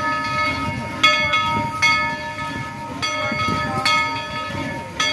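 Steam locomotive bell ringing, struck about once a second, each stroke leaving a lingering ring over the low rumble of the train.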